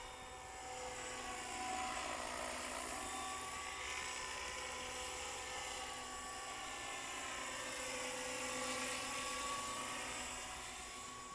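Radio-controlled Hurricane 550 model helicopter running, a high whine and rotor buzz whose pitch slowly sags and rises again, growing louder about two seconds in and again near the end.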